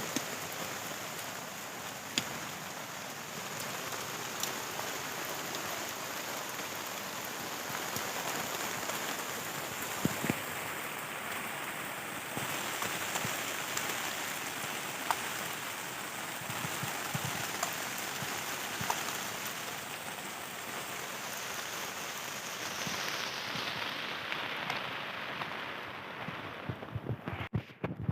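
Heavy rain pelting a dome tent's fabric: a steady dense hiss with scattered sharper drop hits. It briefly cuts out near the end.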